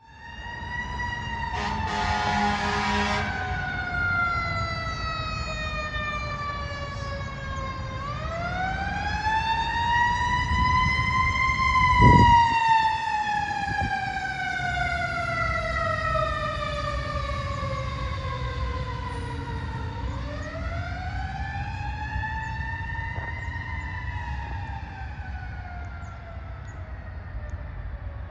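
Fire engine's Federal Q mechanical siren winding up and down in slow glides: falling at first, then rising and falling twice. A short air horn blast comes about two seconds in, with the truck's engine rumbling underneath. A brief low thump near the middle is the loudest moment.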